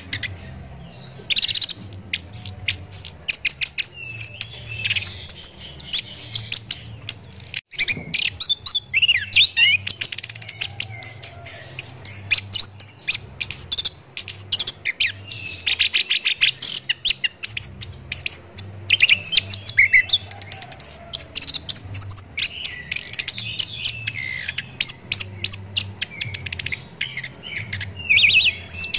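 Orange-headed thrush (anis kembang) singing a long, rapid, varied song of chirps, trills and gliding whistles, with only brief pauses.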